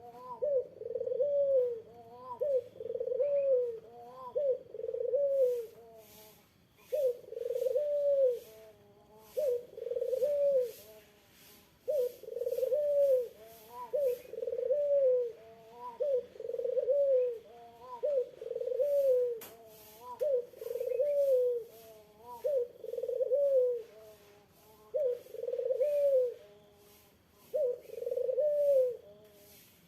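Puter (Barbary dove) cooing over and over: a long run of low coos, each about a second long, with a few short pauses between runs.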